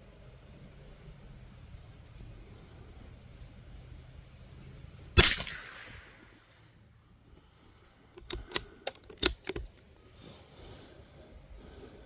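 A single .22LR shot from a Rock Island M14Y bolt-action rifle, a sharp crack with a short echo, about five seconds in. A few seconds later comes a quick run of metallic clicks as the bolt is worked, under a steady high buzz of crickets.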